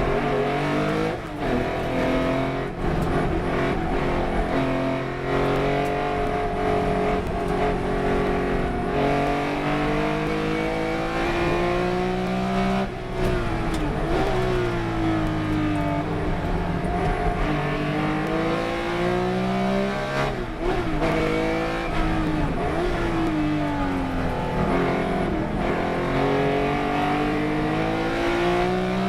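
Racing car engine under hard load, its pitch climbing through the revs and breaking with short dips at gear changes, then sweeping down under braking before pulling up again.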